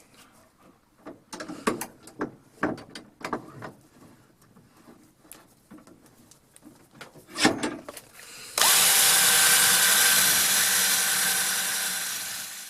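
A few light clicks and knocks of handling, then, about two-thirds of the way in, a handheld Craftsman electric drill starts abruptly and runs steadily with a brush or buffing wheel spinning on its chuck, easing off slightly near the end.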